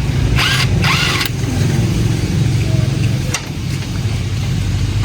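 A motor vehicle engine running steadily, with three short loud hissing noises in the first second and a half and a couple of sharp clicks later.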